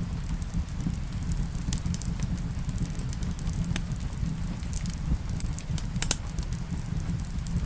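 Wood fire crackling in a fireplace, with sharp pops at irregular moments over a steady low rumble.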